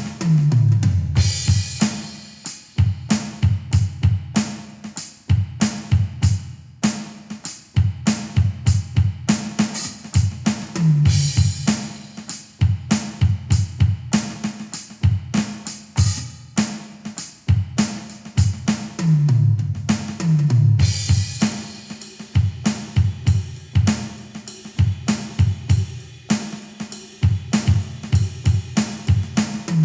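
Donner DED-200 electronic drum kit played in a steady beat of kick, snare and hi-hat. About every ten seconds a tom fill runs down from high to low toms and ends in a cymbal crash.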